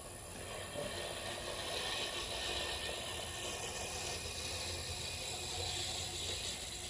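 John Deere lawn mower running at a distance, faint and steady.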